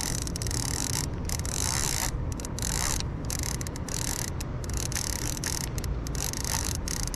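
Fishing reel being wound in with faint ticking while a big channel catfish is fought, over a steady rushing noise.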